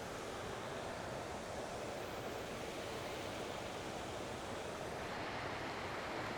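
Waterfall rushing steadily: an even, unbroken water noise.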